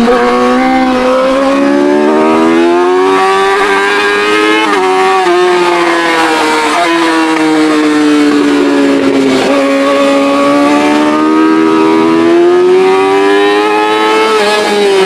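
Straight-piped Yamaha R6 inline-four engine running hard at high revs on track. Its pitch climbs over the first few seconds with a couple of quick steps, sinks slowly for several seconds, then climbs again and falls away near the end.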